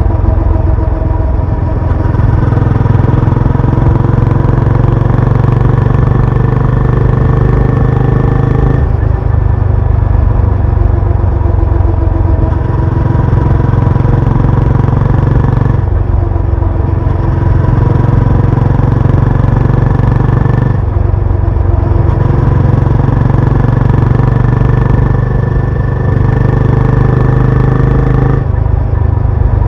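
Benelli Imperiale 400's single-cylinder engine and exhaust running continuously under way, the engine note shifting several times as the throttle or gear changes.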